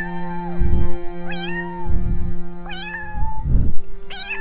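Domestic cat meowing repeatedly: four short meows, each rising then holding, about a second and a half apart. Background music with a steady low beat runs underneath.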